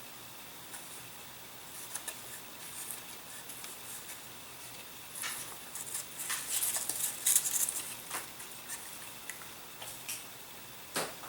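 Hands handling small model-aircraft parts on a workbench while mounting servos: scattered light clicks and short scratchy rustles, busiest about six to eight seconds in, with a sharp click near the end.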